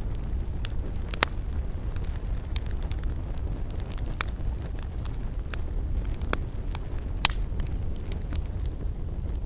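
Wood fire burning in a fireplace: a steady low rumble of flames with irregular sharp crackles and pops, a few standing out louder.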